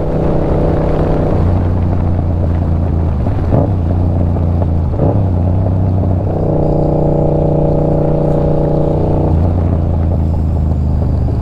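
Yamaha R7's 689 cc parallel-twin engine running at a steady pitch while the motorcycle is ridden, its note changing in character a few times.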